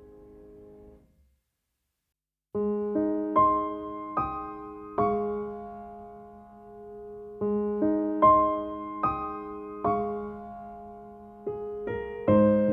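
Slow, calm piano music: a held chord fades out about a second in, a short gap of silence follows, then gently struck piano notes and chords resume and ring out.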